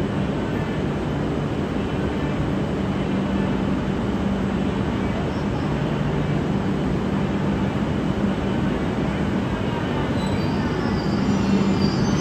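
E6-series Komachi shinkansen at the platform with its nose open for coupling: a steady low hum from the train. Faint high-pitched squealing comes in about ten seconds in.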